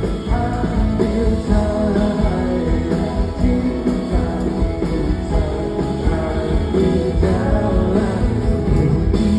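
Pop-rock band playing, with a male lead vocal singing the melody over guitar, bass and drums.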